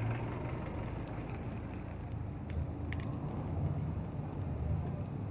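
Low rumble of road traffic with wind on an action camera's microphone, heard from a moving bicycle. Two brief high chirps come about two and a half and three seconds in.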